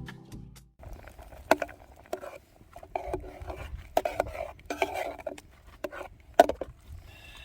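Irregular clinks, clacks and knocks of dishes and eating utensils being handled, with a few sharper knocks; background music fades out in the first second.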